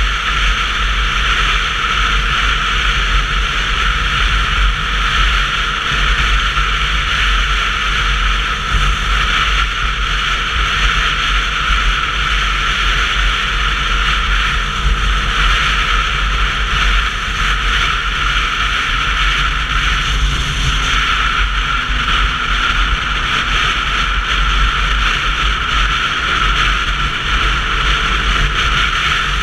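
Steady wind rush and road noise picked up by a GoPro on a moving Sinnis Terrain 125cc motorcycle, with a heavy low rumble under an even hiss.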